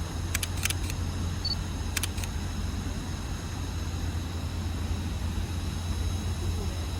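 Alishan Forest Railway train running slowly into a station, with a steady low drone from the locomotive and a few short sharp clicks around half a second in and about two seconds in.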